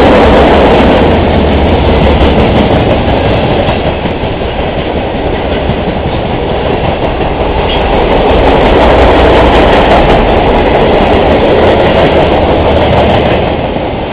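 Freight train rolling past at close range: a loud, steady rumble and rattle of wheels on rail that eases a little partway through, then swells again before easing near the end.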